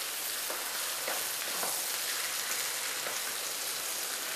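Chicken pieces in masala sizzling steadily in a nonstick wok as a wooden spatula stirs and turns them, with faint scrapes of the spatula against the pan.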